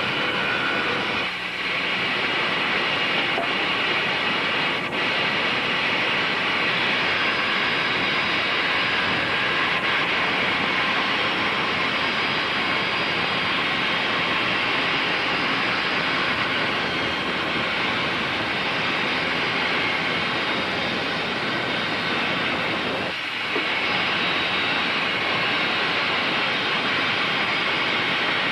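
Bandsaw running steadily, with two brief dips in the sound, about a second in and near the end.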